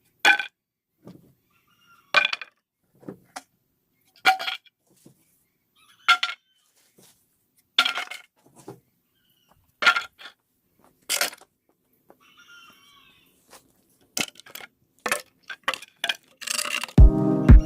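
Sharp metallic clinks and knocks, about one every two seconds, each with a short ring, then a quicker run of clicks near the end. Electronic music with a steady beat comes in at the very end.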